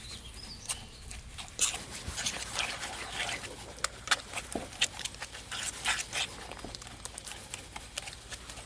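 A dog making small sounds amid a run of irregular clicks and rustling, with a short rising sound about halfway through.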